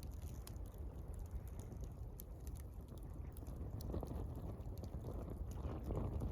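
Campfire crackling with scattered sharp pops over gently lapping water and a low steady rumble; the water swells about four seconds in and again near the end.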